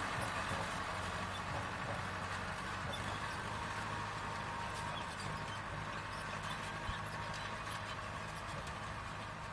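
Mahindra Arjun 555 Power Plus tractor's diesel engine running steadily under load while pulling a 16 harrow through a field, growing slightly fainter.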